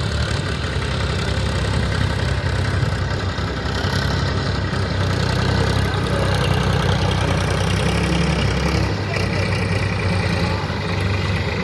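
Tractor diesel engine running steadily, its low note shifting about nine seconds in.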